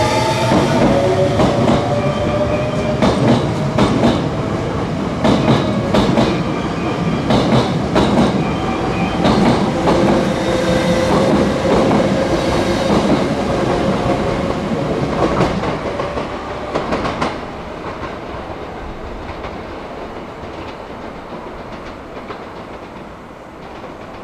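Hankyu 8000 series electric train running past with a whine that rises slowly in pitch as it gathers speed, its wheels clacking over rail joints in regular pairs. The sound fades away over the last several seconds.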